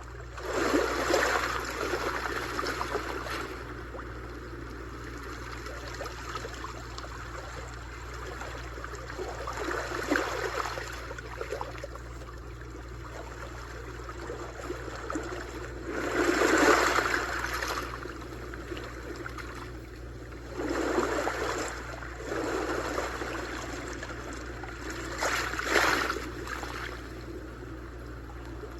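Sea waves washing in and drawing back, swelling in about five surges of noise a few seconds apart over a steady wash of water, the loudest a little past halfway.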